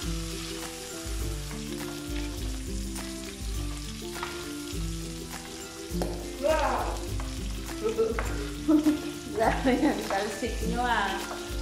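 Chicken liver and chicken pieces sizzling in hot oil in a nonstick frying pan while a spatula stirs them, with louder stirring and sizzling in the second half.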